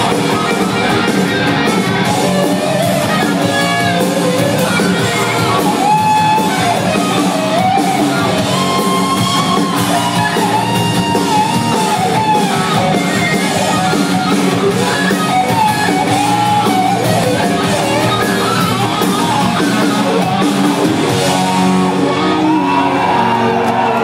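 Rock band playing live and loud in a large hall: electric guitars and drums, with a bending lead melody line over them.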